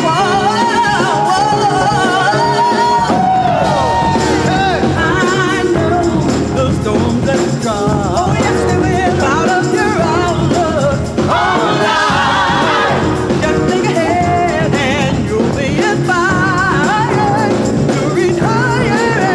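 Gospel choir and band performing live: sung vocal lines with strong vibrato over continuous band accompaniment.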